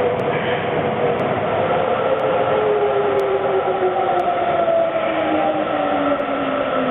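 A rubber-tyred Sapporo Namboku Line subway train running along the platform with a steady rumble, while its motor whine falls in pitch as the train slows to a stop.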